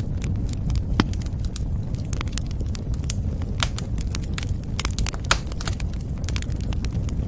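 Wood fire burning with a steady low rumble and frequent irregular crackles and pops, the sharpest about a second in and again a little past five seconds.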